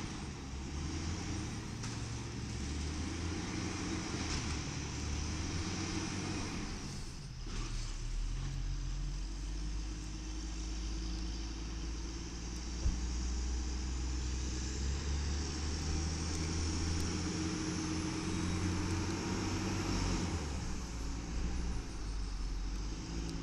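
Engine of a 1994 LNG-fuelled WhiteGMC garbage truck with an Amrep automated side-loader running steadily. A faint whine rises slowly through the middle, and there is a single sharp knock about halfway through.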